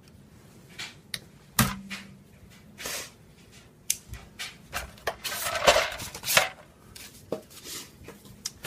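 Handling noise from a freshly unboxed mitre saw and its packing: a string of knocks and clicks, with a sharp knock and a short ring about a second and a half in, and a stretch of scraping and rustling around the middle.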